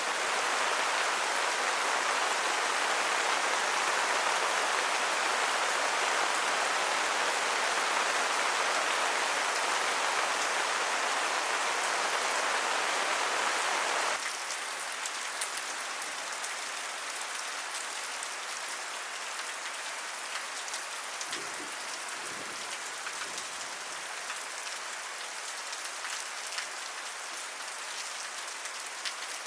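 Steady heavy rain falling. About halfway through it cuts suddenly to quieter, lighter rain in which single drops are heard as scattered ticks.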